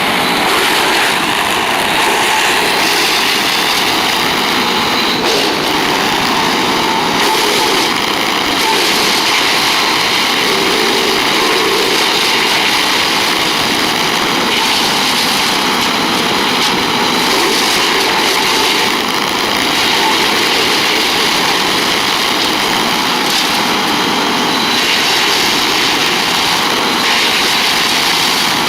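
Wood chipper running steadily at a constant loudness, with no clear pauses or changes.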